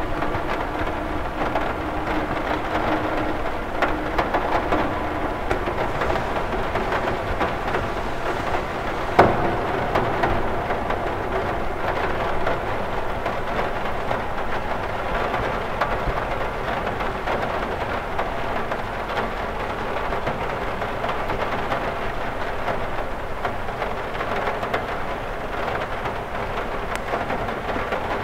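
Rain falling on a window, a steady dense patter, with one sharper tap about nine seconds in.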